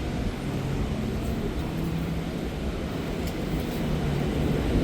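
City street traffic: a steady low rumble of vehicle engines, with a faint engine hum underneath.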